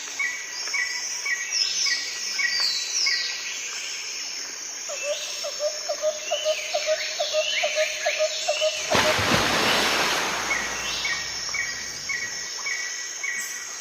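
Several birds chirping and calling, with many short falling whistles, repeated high notes and a quick trilled run lower down. A loud rush of noise breaks in about nine seconds in and lasts over a second.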